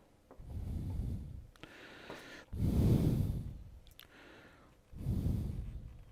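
Three slow, heavy breaths close to the microphone, about two seconds apart, with a few faint clicks in between.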